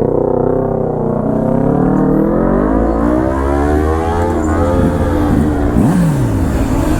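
Kawasaki inline-four sport motorcycle engines running on the road, the engine note rising and falling slowly with the throttle. Near the end, other engine notes sweep quickly up and down across it.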